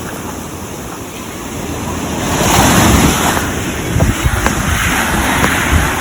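Ocean surf washing on a beach, with wind buffeting the microphone; the surf swells louder about two and a half seconds in.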